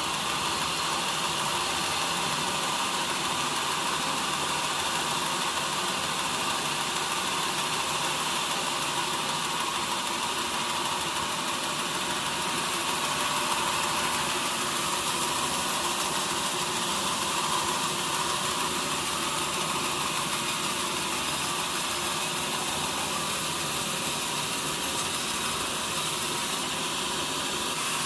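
Sawmill machinery running steadily, an even mechanical noise with no breaks.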